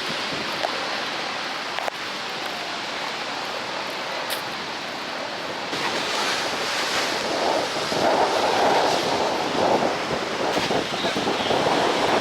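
Steady rushing roar of Niagara Falls' water, with wind on the microphone; it grows louder about six seconds in.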